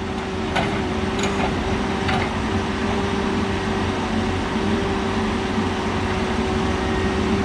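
Diesel engine of heavy logging equipment running at a steady speed with an even hum, with a few faint clicks in the first couple of seconds.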